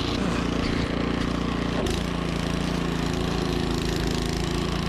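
Troy-Bilt snowblower's engine running steadily, with one sharp knock about two seconds in.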